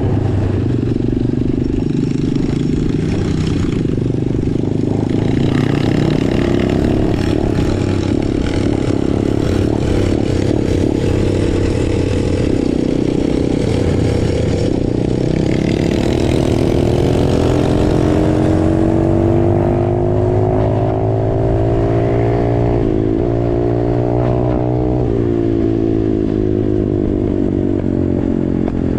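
Straight-piped small-displacement motorcycle engines running hard under way. About halfway through the revs climb steadily, then drop sharply twice.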